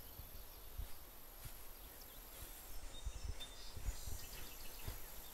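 Quiet outdoor ambience: faint low wind rumble on the microphone, with a few faint bird chirps about three to four seconds in.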